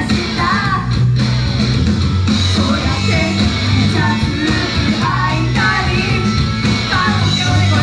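Loud rock music with sung vocals: an idol group's pop-rock song performed live, the voices carrying the melody over a heavy, driving backing.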